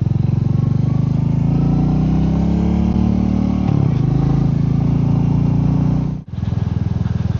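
Royal Enfield Meteor 350's single-cylinder engine under way. It rises in pitch as it accelerates, drops a step just before four seconds in at a gear change, then runs steadily. The sound cuts out for an instant about six seconds in.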